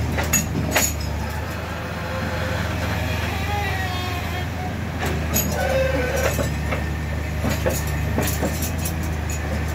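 Heavy diesel truck engine running with a steady low drone, with scattered clicks and knocks over it.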